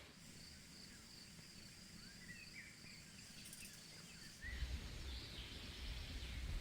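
Outdoor ambience: a steady high-pitched insect trill with scattered bird chirps over it. About four and a half seconds in, a louder low rumble sets in, and the trill stops.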